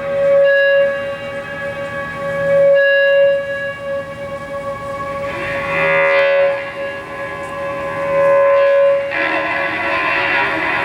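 Live band playing, with an electric guitar holding one sustained note that swells and fades about every two and a half seconds. Fuller strummed guitar comes in near the end.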